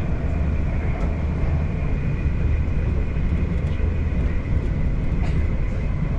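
Steady low running rumble of an electric passenger train in motion, heard from inside the carriage, with a faint steady high tone and a couple of light clicks.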